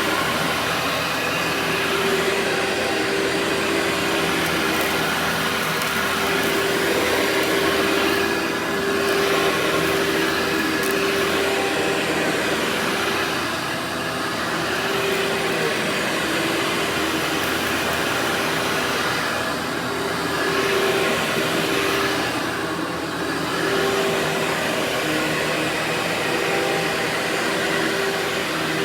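Workhorse vacuum cleaner running steadily: an even rush of air over a constant motor hum. The hiss briefly eases and returns a few times as the suction changes.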